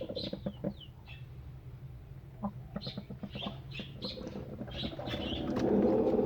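Chickens clucking, with short high chirps from other birds; the clucking gets louder near the end.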